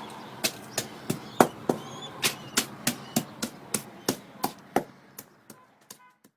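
A steady series of sharp knocks, about three a second, growing fainter toward the end.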